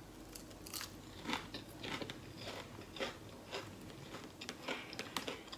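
Quiet chewing of crunchy fried food, with soft crunches and wet mouth clicks at irregular intervals.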